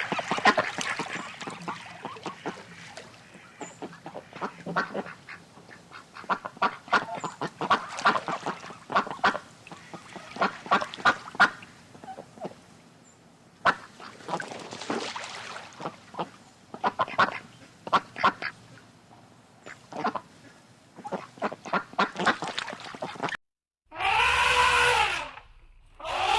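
Ducks quacking in quick runs of short calls, several overlapping. Near the end the sound cuts out briefly and a different loud, clear-pitched call about a second and a half long begins.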